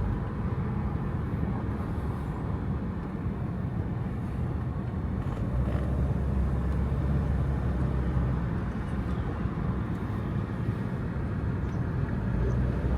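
A car being driven, heard from inside: a steady low rumble of engine and road noise, swelling slightly about halfway through.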